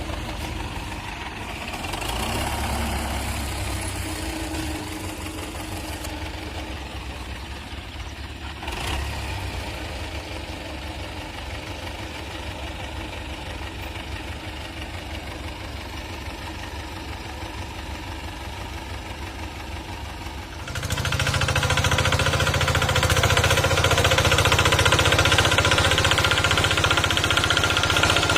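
Tractor engine running steadily, then about two-thirds of the way through it jumps suddenly to a louder, harsher run that holds to the end.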